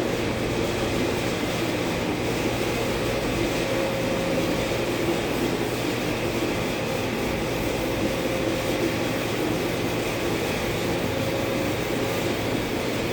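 Steady machine drone with a few held low tones, even in level throughout.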